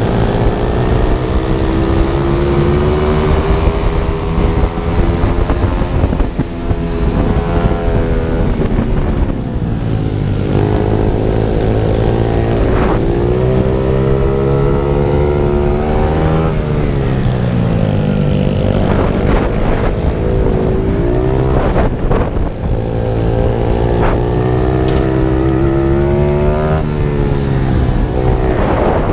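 Mini pit bike engine running hard on track: its pitch climbs under acceleration and falls back again and again as the bike brakes and turns, with wind rushing over the microphone.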